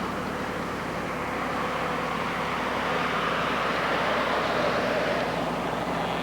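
Steady rushing noise, like wind or moving air, over the low steady hum of a vehicle engine.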